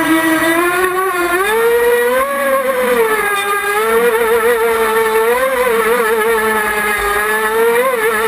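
Motorboat engine running steadily under way, its pitch wavering up and down, rising a little about two seconds in and wobbling again later.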